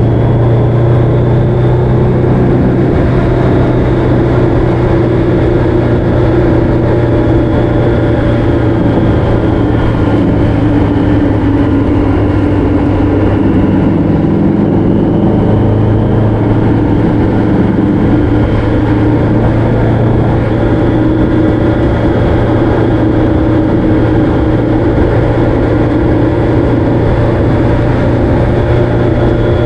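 Motorcycle engine running steadily at cruising speed, its pitch drifting slightly up and down, with wind and road noise.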